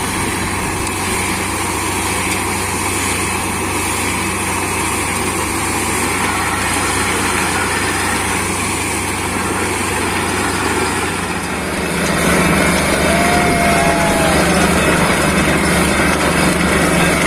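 Borewell drilling rig and its air compressor running with a steady, loud mechanical noise. About two-thirds of the way through the sound shifts: the low engine hum changes and it gets a little louder.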